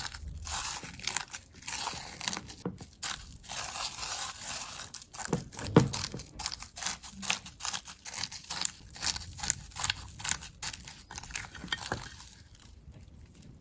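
Slime being squeezed and worked by hand, giving a dense run of crackles and clicks, with one louder pop about six seconds in. It thins out and quietens near the end.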